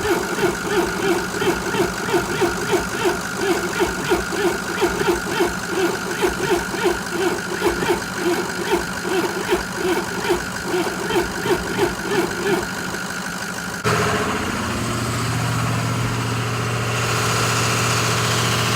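Engine cranking on a cold start, with an even pulsing about three times a second. About fourteen seconds in the sound changes suddenly to a steady running engine note.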